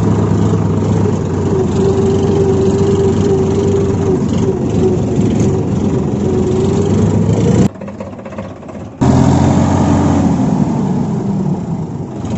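A motor running steadily with a held, slightly wavering whine over a low hum. It cuts out abruptly for about a second about eight seconds in, then resumes.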